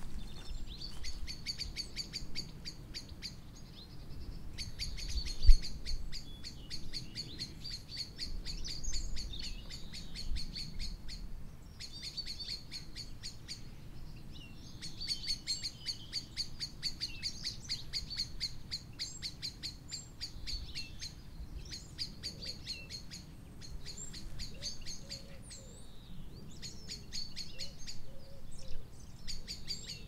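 Birdsong: rapid, evenly repeated high chirping in runs of a few seconds with short pauses, and now and then a brief gliding call. A low rumble runs underneath.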